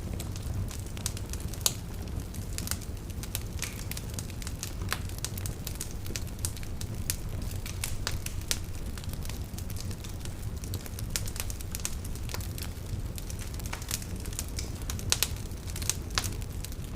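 Wood fire crackling with irregular sharp pops and snaps, a few louder pops standing out, over a steady low rumble.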